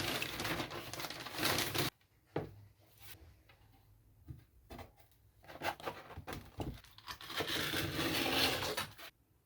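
Rustling, tearing handling noise in two longer stretches, the first stopping suddenly about two seconds in and the second near the end, with scattered knocks and clicks between them.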